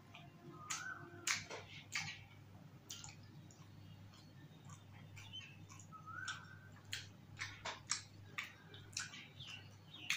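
Close-miked chewing of yogurt-soaked dahi chaat: irregular wet mouth clicks and smacks, with two short squeaks, one about a second in and one around six seconds in.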